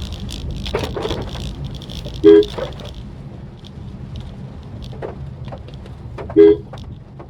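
A car horn sounds twice, each a short beep, about four seconds apart. Underneath is the steady low rumble of a car being driven.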